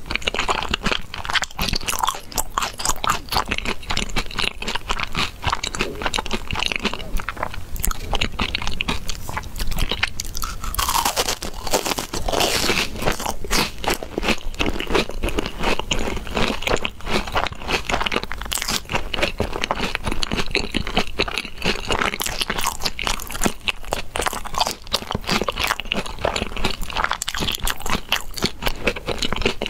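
Close-miked crunching and chewing of crispy, crumb-coated deep-fried balls, a dense run of crisp crackles that goes on throughout.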